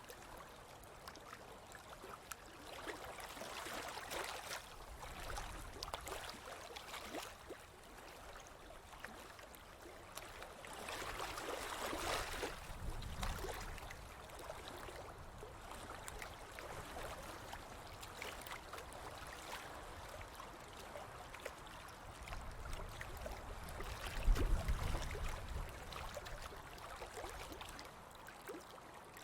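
Ocean waves washing onto a beach: a hiss of surf that swells and fades every several seconds, with a louder low rumble about 24 seconds in.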